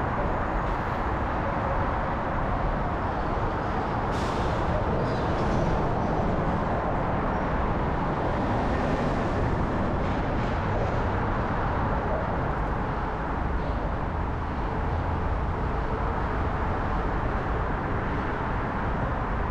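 Steady city traffic and road noise heard from a moving bicycle, with a short high hiss about four seconds in.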